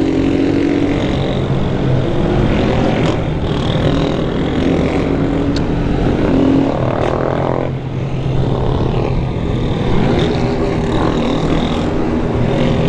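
Single-cylinder Honda CG 160-series motorcycle engine running under way. Its pitch rises and falls with the throttle, rising around the middle and easing off briefly about eight seconds in.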